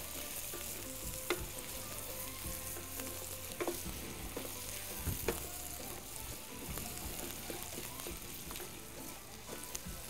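Diced potato, onion, garlic and chili frying with a steady sizzle in a metal pan, stirred with a wooden spoon that scrapes and knocks against the pan now and then.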